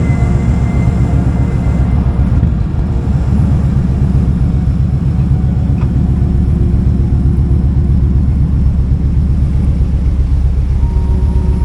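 Kawasaki Vulcan 2000's big 2-litre V-twin engine running steadily at low revs, a deep, even rumble.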